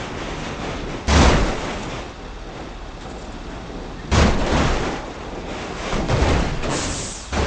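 Loud sudden booming impacts, two of them about three seconds apart, each dying away over about a second, with more crashing later on over a steady rumbling noise.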